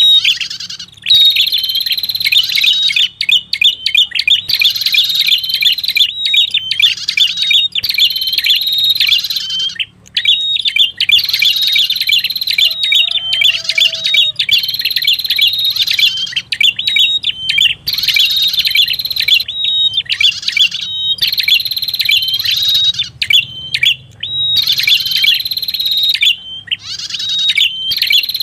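Bird-lure recording of a prenjak kepala merah calling: loud, fast strings of sharp high chirps in bursts of a second or two, broken by short gaps.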